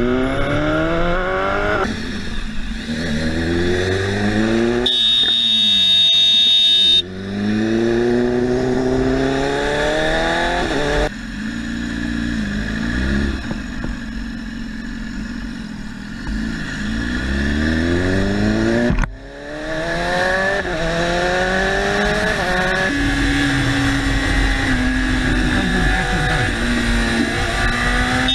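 Motorcycle engine accelerating hard through the gears, its pitch climbing and then dropping back with each shift, over and over. A high steady beep sounds for about two seconds, a few seconds in.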